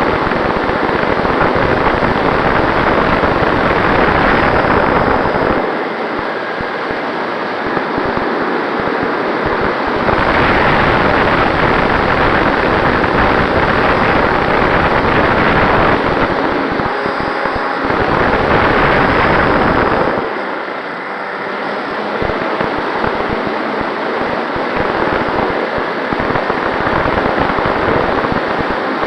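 Radio-controlled model plane in flight: wind rushing over the camera's microphone, mixed with the motor and propeller, with a faint steady whine. The noise eases twice, about six seconds in and again about twenty seconds in, then comes back up.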